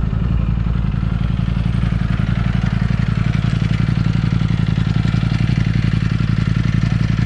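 Motorcycle engine running steadily at idle, its firing pulses quick and even, with no revving.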